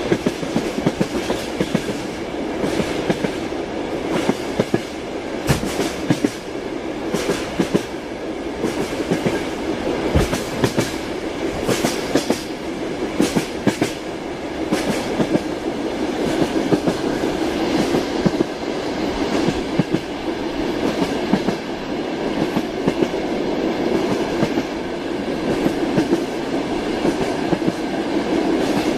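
Moving train: steady running rumble with the clickety-clack of wheels over rail joints, sharp clicks coming irregularly.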